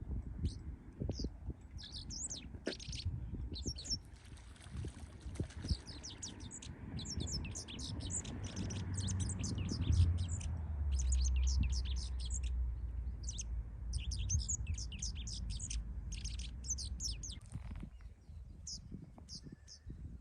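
Small birds chirping, with many short, quick high chirps coming in rapid runs, over a low rumble that is strongest in the middle stretch.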